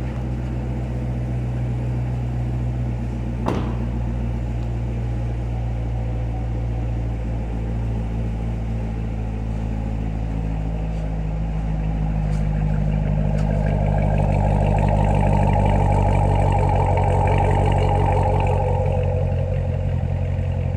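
Corvette Grand Sport's 6.2-litre V8 running steadily, swelling louder about two-thirds of the way through before easing back. A single sharp click about three and a half seconds in.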